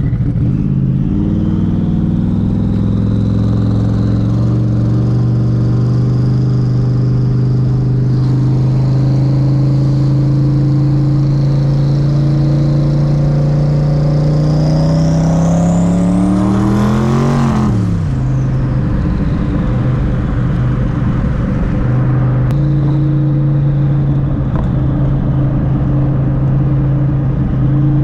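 Twin-turbo Mustang Cobra V8 pulling steadily in one gear, its pitch climbing slowly with a thin high whine rising alongside. About two thirds of the way through the pitch drops sharply at a shift or lift-off, and the engine then settles to a steady cruise.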